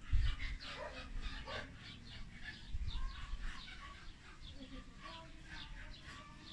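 Small birds chirping repeatedly, several short chirps a second, with a couple of low thumps about a second in and near three seconds.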